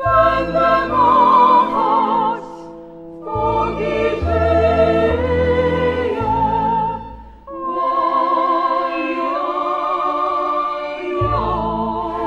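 Operatic singing with a wide vibrato over instrumental accompaniment, in long held phrases.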